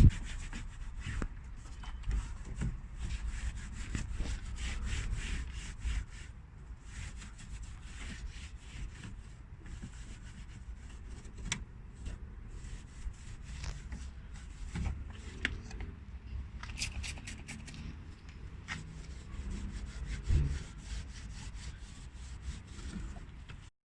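A detailing brush scrubbing over engine bay plastics and hoses, working in a wet dressing, in a long run of short back-and-forth rubbing strokes.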